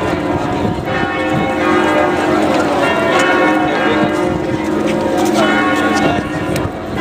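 Church bells of Notre-Dame de Paris ringing a full peal, several bells struck over and over so that their tones overlap.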